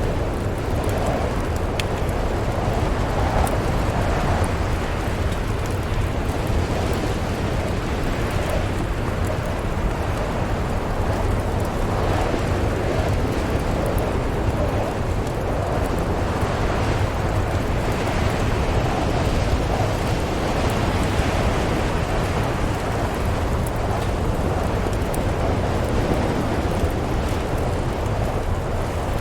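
Steady snowstorm wind with a deep rumble, and faint scattered crackles of a wood fire.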